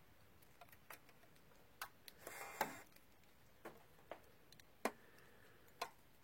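River ice cracking as the morning sun warms it: faint, sharp cracks at irregular intervals, about eight in a few seconds. The frozen, near-stagnant water is shifting and working.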